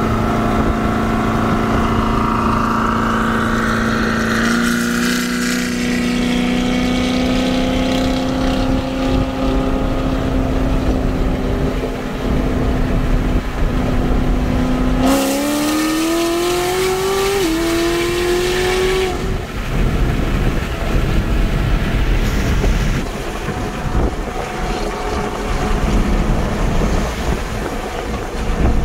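Big-cam C7 Corvette Z06 V8 with a Magnuson 2650 supercharger, heard from inside a neighbouring car: a steady drone at cruise, then about fifteen seconds in a hard pull, the pitch rising, dipping once at an upshift and rising again for about four seconds. After that, wind and road noise take over.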